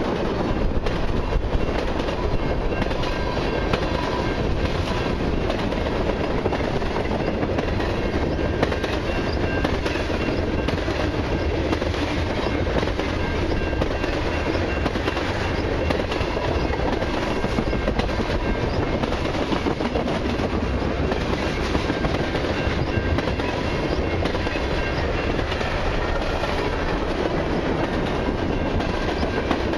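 A long freight train of mixed cars and autoracks rolling past steadily: a continuous rumble of wheels on rail with a constant clicking of wheel sets over the rail joints and faint steady ringing from the wheels.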